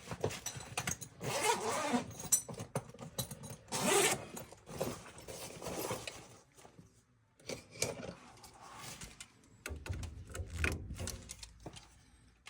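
Metal clinks, rattles and scrapes of hand tools and furnace parts being handled, coming in irregular bursts with short pauses.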